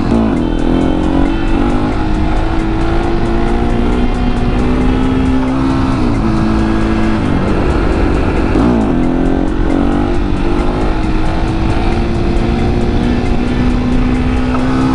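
701 motorcycle's single-cylinder engine pulling under way, its pitch holding or climbing and then dropping sharply several times as the rider shifts gears or rolls off the throttle, with wind rumbling on the helmet-mounted microphone.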